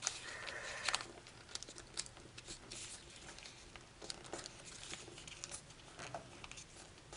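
A sheet of foil origami paper crinkling and crackling in short, irregular rustles as it is folded and creased by hand.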